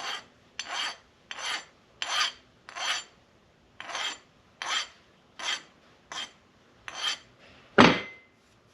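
Fine hand file being drawn across the edge of an aluminum base plate to knock off burrs, about ten rasping strokes at an even pace. A louder single knock with a short ring comes near the end.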